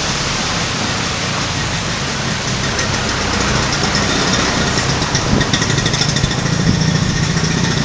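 A motor vehicle's engine running close by over a steady hiss, growing louder from about a third of the way in.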